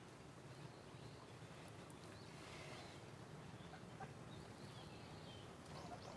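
Faint bird calls, a few wavering chirps over a quiet background, with a few soft ticks near the end.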